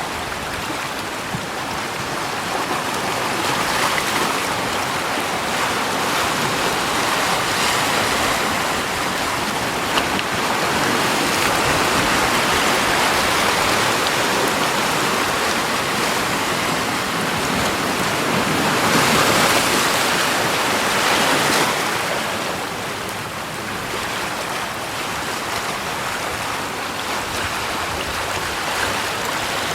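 Continuous rushing water, a steady hiss that swells louder for several seconds in the middle and then eases off.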